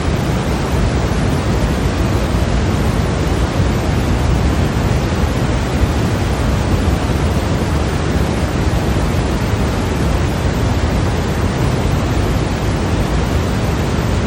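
Steady, unchanging generated white noise of a sleep-aid track: a constant hiss with more weight in the low end than the high.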